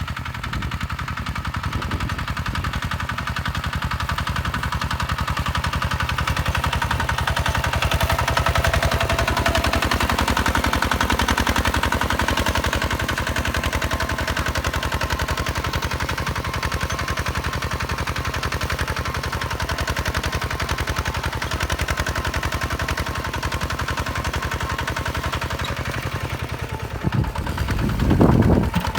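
Hinota HG Gold 155 DI single-cylinder diesel engine running steadily with a rapid, even chug. Near the end, louder irregular low rumbles are added.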